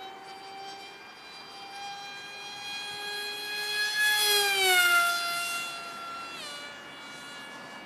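Skyfun RC jet's 2836 2350kv brushless motor and propeller whining at full power on a 3S battery. It grows louder to a peak about halfway, where the pitch slides down as the plane passes, and the pitch drops again near the end.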